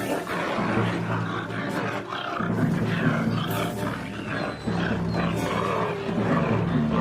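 Dramatic background music with a wild animal roaring and growling over it.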